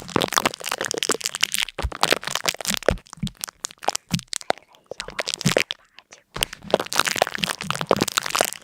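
Close, rapid crackling and crunching: a dense run of sharp cracks that thins to a near lull about four and a half seconds in, then picks up again about a second and a half later.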